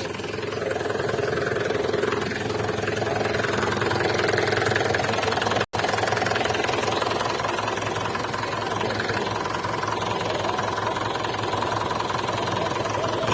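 Heavy vehicle's diesel engine running steadily, with a momentary dropout a little before halfway.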